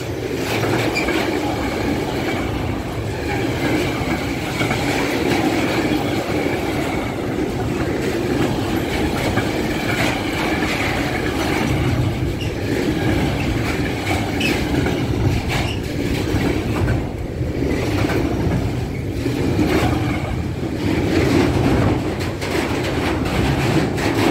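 Container freight train of flat wagons rolling past at close range: a steady loud rumble with the wheels clacking rhythmically over rail joints and, at times, a faint high squeal from the wheels.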